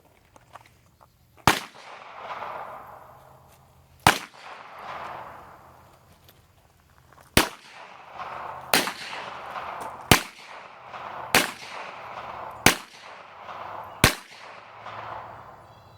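Eight sharp, loud bangs like shots. The first three are a few seconds apart and the rest come about every 1.3 seconds. Each bang is followed by an echo that dies away over about a second.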